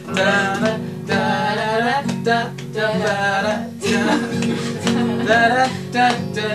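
Singing with a strummed acoustic guitar.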